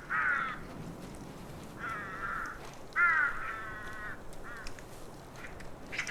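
Ravens calling at a kill: a series of harsh, croaking caws, about five in all, the longest about three seconds in.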